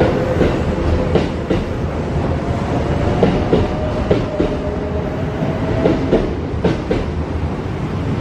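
Kintetsu electric train pulling out of the station and gathering speed, its wheels clacking over rail joints in repeated sharp clicks. A motor whine climbs slightly in pitch through the middle.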